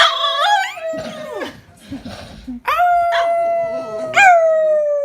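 A dog howling: a short howl that slides down in pitch and fades, then, a little under three seconds in, a long, nearly level howl with a brief upward lift near the end.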